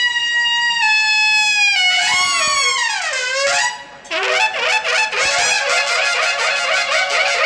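Music led by a single reed or brass wind instrument: a long held note that steps lower, a deep slide down in pitch about halfway through, then quick ornamented phrases.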